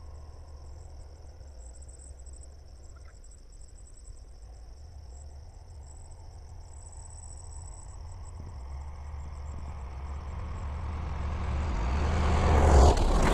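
Crickets chirring steadily in a high, pulsing drone over a low engine rumble. Over the last few seconds a motor vehicle's engine approaches and grows much louder, drowning out the insects.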